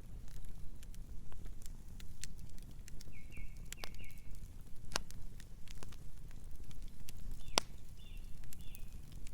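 Campfire burning with a steady low rumble and scattered wood crackles, with two sharper pops about five and seven and a half seconds in. Two short runs of three high chirps sound over it, around the middle and again near the end.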